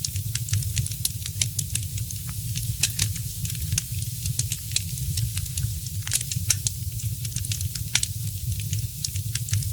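Wood fire in a fireplace crackling, with frequent irregular sharp pops over a steady hiss and a continuous low rumble.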